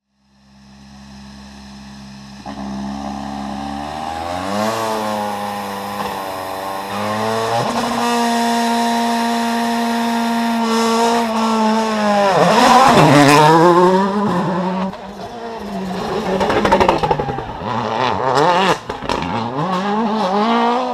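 World Rally Championship car's engine at full speed: it holds high revs as it approaches, drops sharply in pitch as it passes about twelve seconds in, then the revs rise and fall quickly through gear changes.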